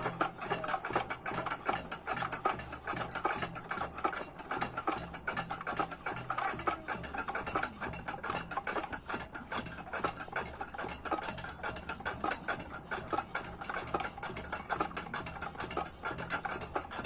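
Hand-turned crank mechanism clicking rapidly and evenly as its gears and ratchet turn, with a steady low hum underneath.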